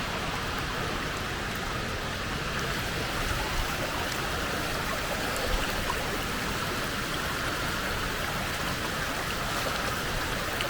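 Steady rushing of a creek's water running over rocks, with falls close by, and a couple of faint knocks partway through.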